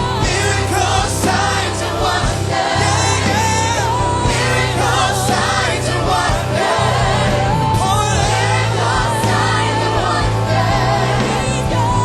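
Live gospel worship music: a choir and congregation singing over a band, with steady sustained bass notes.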